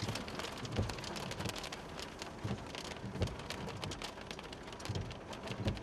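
Rain hitting a car's windshield and roof in scattered, irregular drops, with a few low thumps.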